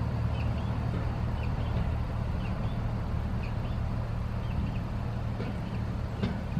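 Class 73 electro-diesel locomotive's diesel engine running with a steady low hum. Light high chirps repeat about twice a second over it.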